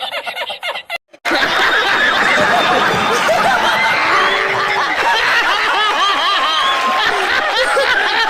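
Laughter that cuts off about a second in; after a brief gap, many voices laughing together at once, dense and steady.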